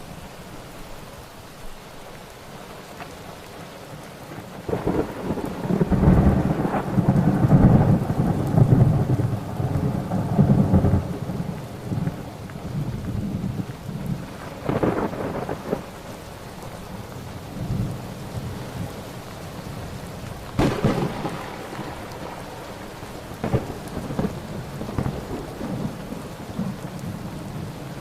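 Thunderstorm: steady rain with a long rolling peal of thunder about five seconds in, then sharper claps of thunder around the middle and again a few seconds later, followed by lighter rumbles.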